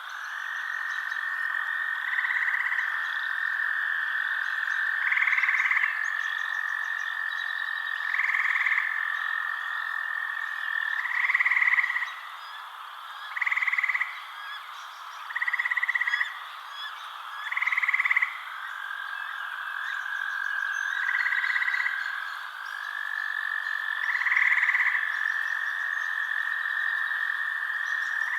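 Frogs calling at night. One holds a long, steady trill that stops for several seconds midway. Over it, short calls repeat about every two to three seconds.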